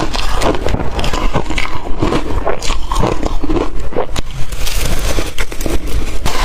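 Close-miked crunching and chewing of blender-crushed ice: a dense, irregular run of crackles and bites.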